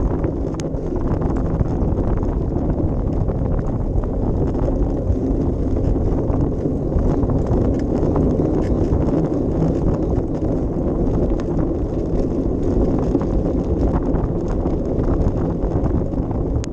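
Wind buffeting an action camera's microphone as a steady low rumble, with faint scattered clicks and rattles running through it.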